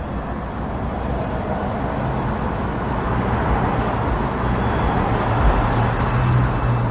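Road traffic noise, with a low vehicle engine hum that grows louder.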